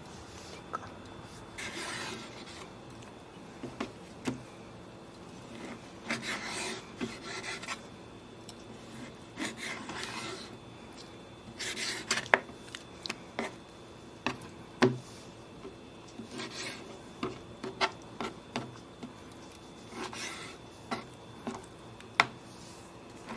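Intermittent rubbing and scraping, each stroke lasting under a second and coming every few seconds, mixed with scattered sharp clicks and taps of objects being handled.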